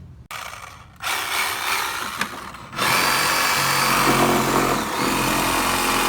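Reciprocating saw (Sawzall) cutting the car's sheet-metal body. It starts about a second in, gets much louder near the three-second mark and then runs steadily.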